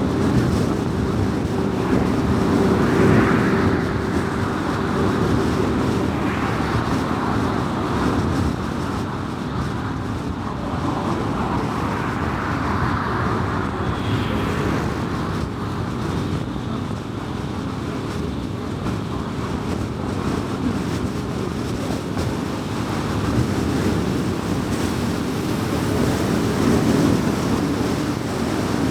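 A car driving at highway speed: steady tyre and road noise with the engine underneath, with a steady hum for the first few seconds. The noise swells and fades several times.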